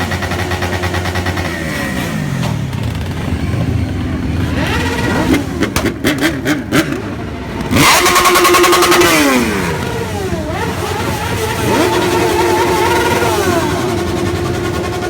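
Motorcycle engines revved hard again and again, pitch climbing to a flat ceiling where they hold at the rev limiter, then dropping back. A quick run of sharp cracks comes about halfway through, just before the loudest rev.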